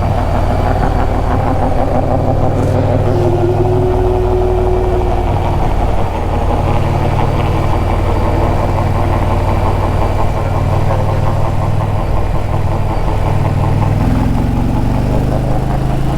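Indian Challenger motorcycle's liquid-cooled V-twin running steadily on the highway, with wind and road noise; its note rises near the end as it accelerates.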